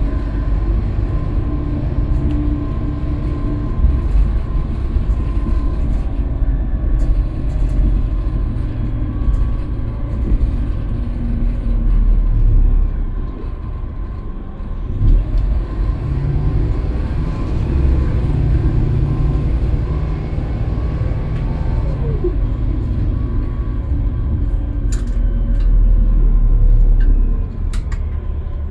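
Scania K320UB bus's five-cylinder diesel engine and drivetrain heard from inside the cabin while driving, the engine note rising and falling with speed and easing off for a moment about halfway through. A few sharp clicks or rattles near the end.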